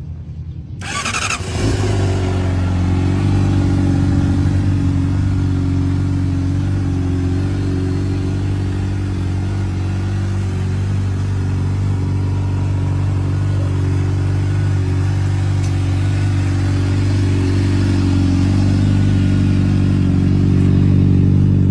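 A 2018 Honda CBR600RR's inline-four engine with a Yoshimura exhaust starts up about a second in, then idles steadily.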